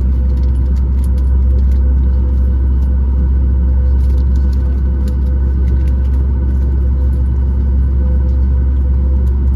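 Boeing 737 MAX 8 cabin noise: a steady low rumble from the CFM LEAP-1B engines and the cabin air, heard from a seat just behind the wing, with faint steady hum tones and light rattles.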